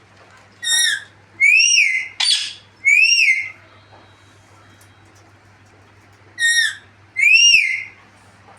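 Pet parrot calling in short, high, whistle-like calls that arch up and fall, in pairs: about a second in, again from about one and a half to three and a half seconds in with a harsher screech among them, and once more near the end.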